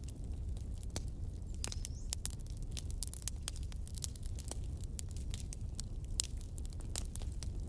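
Wood fire burning in a fireplace, crackling with frequent irregular sharp pops over a low steady rumble.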